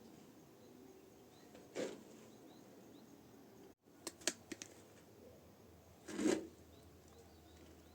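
Scattered light knocks and clicks of objects being handled at a washing machine: one knock about two seconds in, a quick run of clicks past the middle, and a fuller knock near the end, over a quiet room background.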